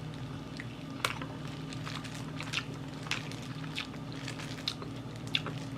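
Close chewing and biting of Korean fried chicken, with scattered short crunches and mouth clicks over a low steady hum.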